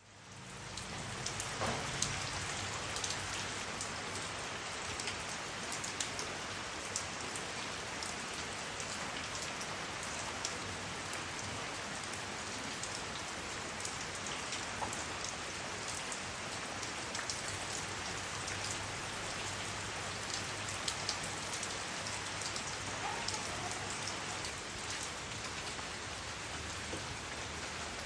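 Steady rainfall, a dense even hiss dotted with the ticks of single drops striking close by. It fades in over the first second.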